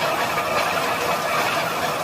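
Tata Signa heavy truck's diesel engine running hard under load, a steady, gritty noise.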